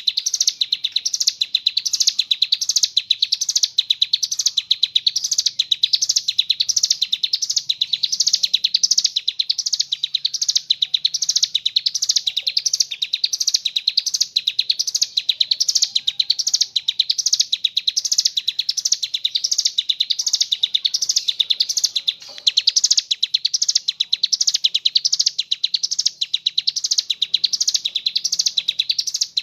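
Hill prinia (ciblek gunung) singing a fast, unbroken trilling song, pulsing about twice a second, with one brief break about three-quarters of the way through.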